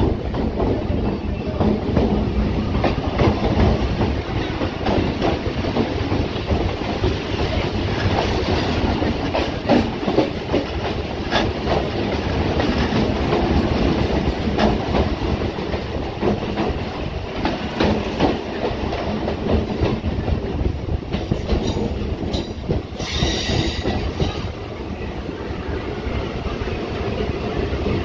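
Electric suburban local train running, heard from its open doorway: a steady rumble with wheels clattering over rail joints, and another local train rushing past close by on the next track. A brief high squeal comes near the end.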